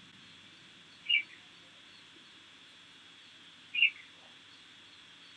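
A small bird chirping twice, short high chirps about a second in and again near four seconds, over a faint steady high-pitched whine.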